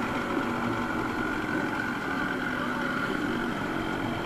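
Modified Yamaha RX100's single-cylinder two-stroke engine running steadily as the bike is ridden, its pitch wavering slightly.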